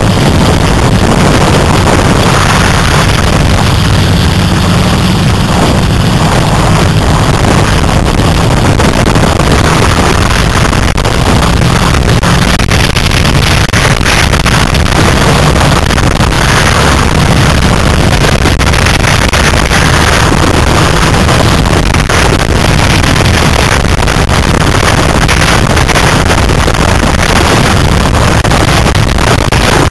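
Austin 7 Ulster's 747 cc four-cylinder side-valve engine running steadily on the road, heard from on board the open car, with wind buffeting the microphone.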